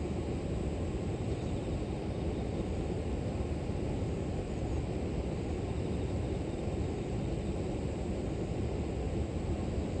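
Flowing river water, a steady low rushing with no distinct splashes.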